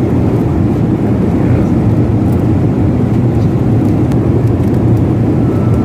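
Jet airliner cabin noise in flight: a steady, loud low rumble of engines and airflow.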